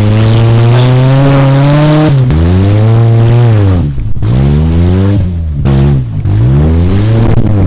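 1995 Mazda's Ford engine revving hard and loud, climbing in pitch and then dropping off about five times in a row.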